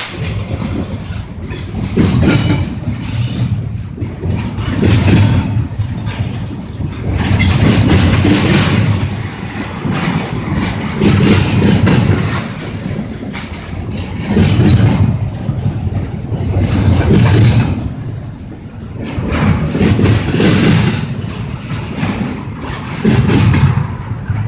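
Train running past: a loud rumble of wheels on the rails that swells and eases every couple of seconds, with a high wheel squeal dying away at the very start.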